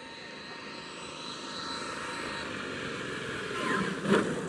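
Traxxas X-Maxx RC monster truck's brushless electric motor whining as the truck runs, growing louder and peaking about four seconds in, then dropping away.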